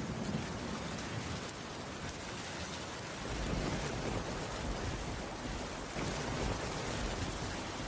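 Steady rainfall, an even hiss, over a low rumble of thunder.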